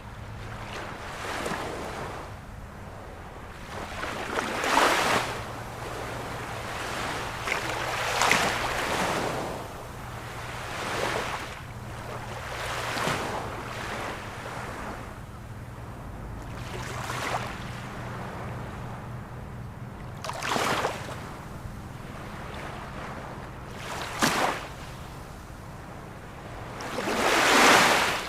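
Ocean waves breaking and washing ashore, one rushing swell every two to four seconds, the biggest near the end, over a low steady hum.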